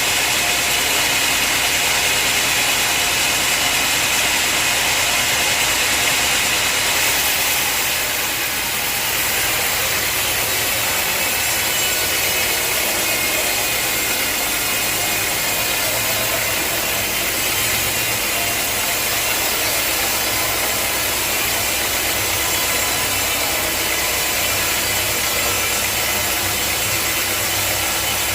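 Sawmill running: an engine-driven saw cutting wood with a steady, continuous mechanical noise. The sound shifts about eight seconds in, the high hiss easing and a low hum growing stronger.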